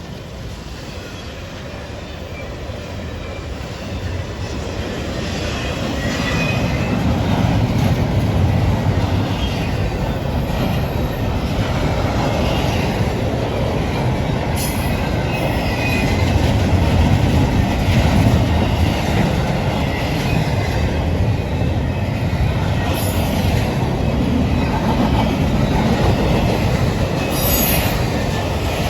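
A train rolling past, with steady rumble from the wheels on the rails, scattered clacks and brief high-pitched wheel squeals. It grows louder over the first several seconds and then holds steady.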